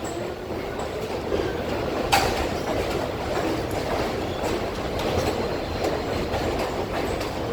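New York City subway train running on the track: steady rumble and wheel clatter, with one sharp metallic clank about two seconds in.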